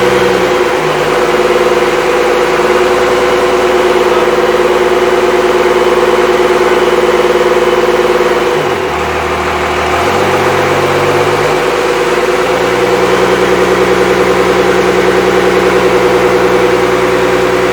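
Freshly rebuilt Cummins 5.9L 12-valve inline-six diesel engine running at idle on its first start, steady and loud, with a brief dip in level about nine seconds in.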